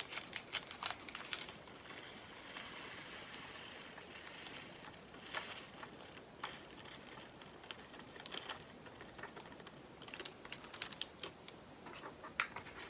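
Light plastic clicks and rattling of diamond painting resin drills being poured into a small plastic storage pot. There is a longer run of fine rattling about two and a half seconds in, then scattered ticks.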